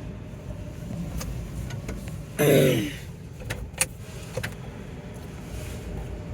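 A stuck car sunroof being forced shut by hand: scattered clicks and knocks from the panel and its mechanism, with one loud, short strained sound about two and a half seconds in and a sharp click about a second later, over a low rumble in the car.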